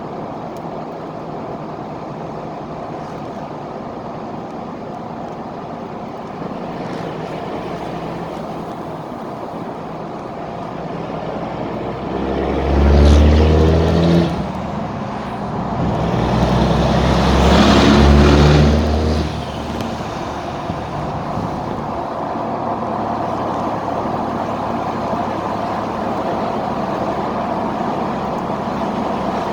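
Straight-piped 2003 Cummins 5.9-litre inline-six turbo-diesel under way: a steady drone, then two hard pulls with the pitch climbing, each cut off abruptly as the driver shifts or lifts, before it settles back to a steady cruise.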